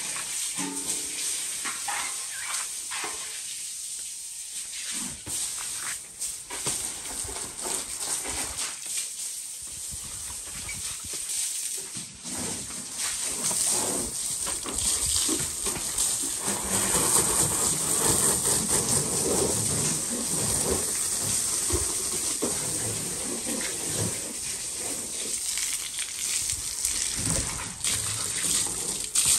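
Food sizzling in a pan: a steady frying hiss with scattered small clicks and clatter, growing louder about halfway through.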